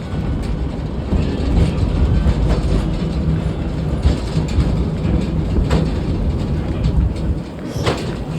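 Train cars rolling along the track, heard from aboard: a steady low rumble with wheels clicking over rail joints, and a sharper clack near the end.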